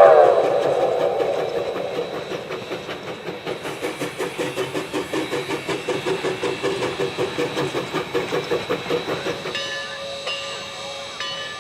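Narrow-gauge steam train passing: its whistle tails off at the start, then comes a steady rhythmic beat of about three a second as the train goes by. Near the end a bell starts ringing with regular strokes.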